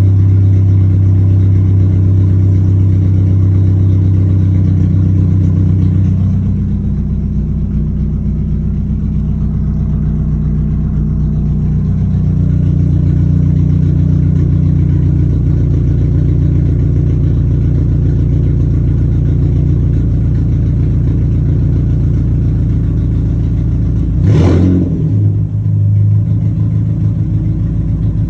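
Straight-piped Dodge Neon four-cylinder engine idling loud after a cold start; the idle drops lower and quieter about six seconds in. Near the end it is blipped once, a quick sharp rev that falls straight back to idle.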